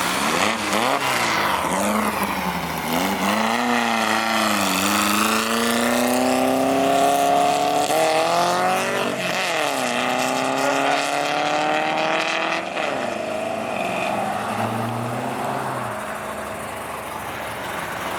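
A car accelerating hard away, its engine revving up and down, then climbing steadily, dropping with a gear change about nine seconds in and climbing again before fading as it pulls away.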